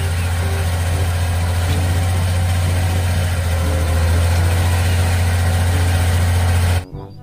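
Shacman F2000 dump truck's diesel engine running steadily with a deep hum while the hydraulic ram raises the tipper bed to dump its load; it gets slightly louder partway through and stops abruptly near the end.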